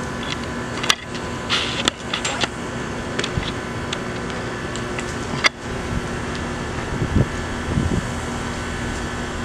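Steady machine hum like a fan or air-conditioning unit, with a few sharp clicks and knocks and a brief rustle in the first half.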